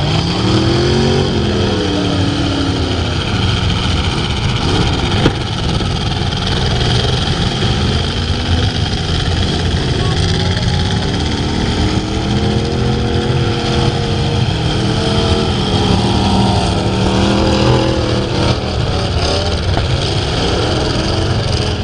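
Several full-size trucks and vans racing, their V8 engines revving up and easing off through the turns. There is a sharp knock about five seconds in.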